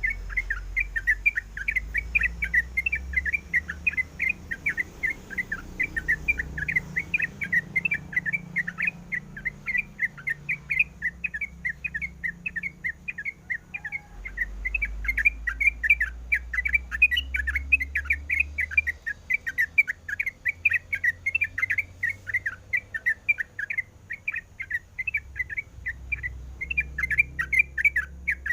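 Yellow-vented bulbul (trucuk) giving a rapid, continuous chatter of short high chirps, several a second.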